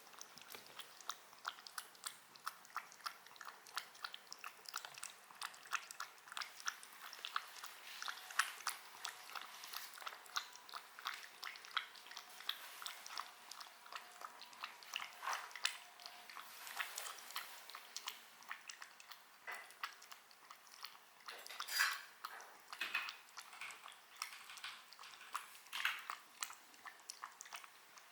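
Close-up chewing of crunchy food: a steady run of quick, crisp crunches, several a second, with a few louder crunches in the later part.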